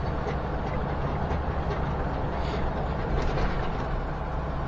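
Semi-truck cab interior at highway speed: a steady low engine drone under road and wind noise.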